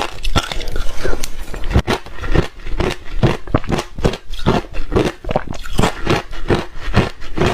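Close-up crunching and chewing of reshaved refrigerator ice: rapid, irregular crisp crunches, several a second.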